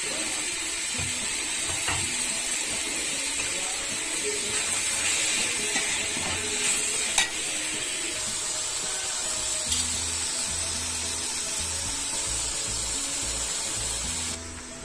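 Sliced onions, tomatoes and mint frying in oil in a metal pot, a steady sizzle while being stirred with a steel spatula, with a couple of sharp clinks of the spatula on the pot. The sizzle cuts off shortly before the end. Background music plays underneath.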